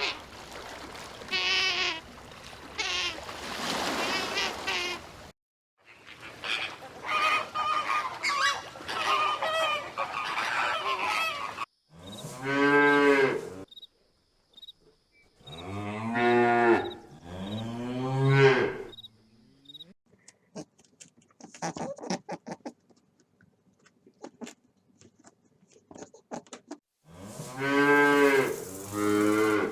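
A run of different animal calls, cut one after another. The loudest are four long, drawn-out, deep calls from a hoofed farm animal, about 12, 16, 18 and 28 s in. Noisier calls fill the first few seconds, and faint clicks and chirps come near the end.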